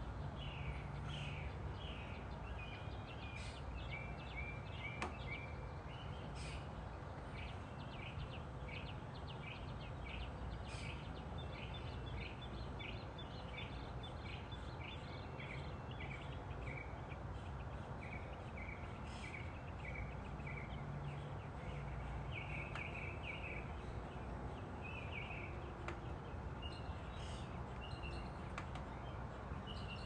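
Birds chirping and calling: many short notes and quick runs of repeated notes, one after another, over a steady low background rumble.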